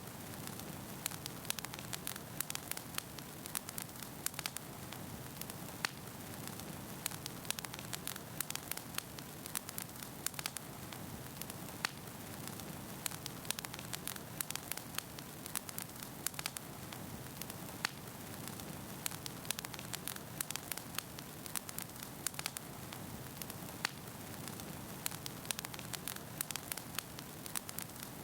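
Wood fire burning in a fireplace: logs crackling and popping in many sharp snaps over a steady low hiss of the flames.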